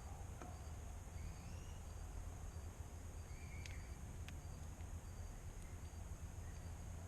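Faint outdoor evening ambience: insects chirping in an even, high-pitched rhythm, a little under two pulses a second, over a low steady rumble. A couple of faint short bird chirps and a few light clicks come through.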